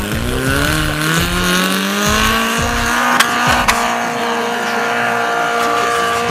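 Suzuki SJ 4x4's engine revving up under load as it climbs a steep sand slope. The pitch rises over the first three seconds, then holds steady at high revs. Two sharp knocks come just past the midpoint.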